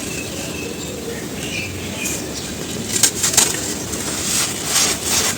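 Dry charcoal ash lumps crumbling and crunching in the hands, with crisp crackles starting about two seconds in and coming thicker and louder from about three seconds, over a steady low rumble.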